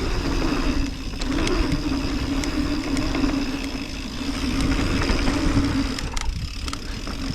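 Mountain bike descending a dirt trail at speed: wind rushing over the microphone, tyres on dirt and the chain and frame rattling over bumps, with a steady buzzing tone underneath.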